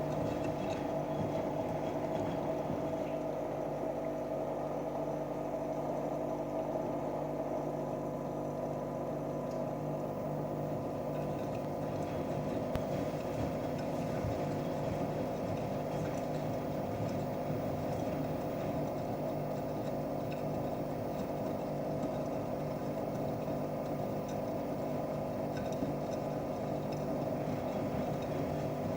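Washing machine running with a steady motor hum of several even tones over a constant wash of noise.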